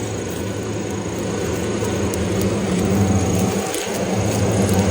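Swarm of Asian giant hornets buzzing around their dug-out nest, a steady, low, droning hum that swells slightly.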